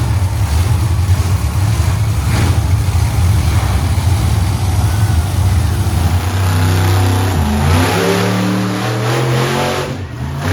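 Monster truck engine running loud and steady, then revved in several quick blips from about six seconds in, its pitch climbing and dropping with each rev.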